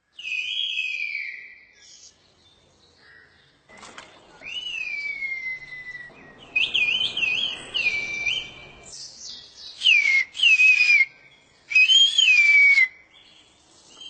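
Human whistled speech in the Turkish whistled language (kuş dili): a series of loud, high whistled phrases with falling glides and quick up-and-down warbles, calling a neighbour. A short phrase opens it, a longer pause follows, then several phrases come in quick succession.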